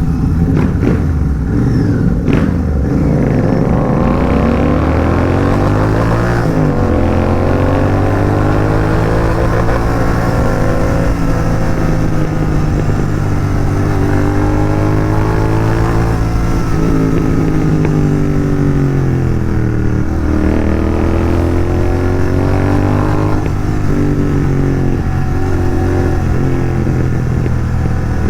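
Royal Enfield Continental GT 650 parallel-twin engine, fitted with an aftermarket exhaust, roaring under way. The revs climb over the first few seconds and hold steady. They drop for a few seconds past the middle, then climb again and settle into a steady cruise.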